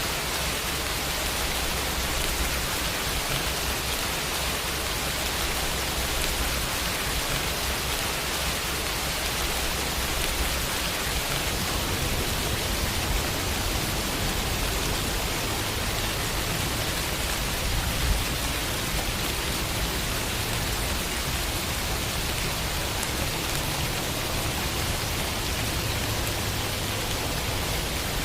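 Steady rain falling on a window, an even hiss, with one brief louder tap about eighteen seconds in.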